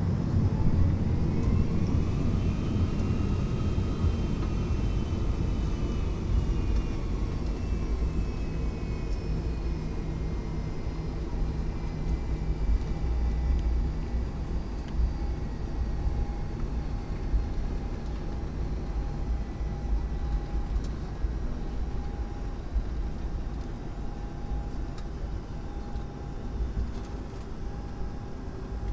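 Boeing 757-200 jet engines heard from the cabin during takeoff over a heavy rumble. Their whine climbs over the first few seconds, then slowly sinks as one steady tone holds on.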